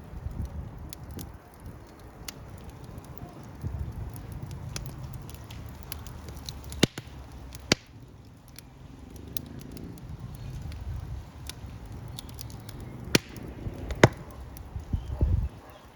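Wood fire crackling, with irregular sharp snaps and pops over a low rumble. Four louder pops stand out, two around the middle and two near the end.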